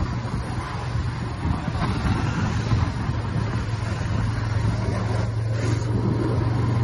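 Royal Enfield Classic 350's single-cylinder engine running steadily at cruising speed, with wind and road noise rushing over the microphone.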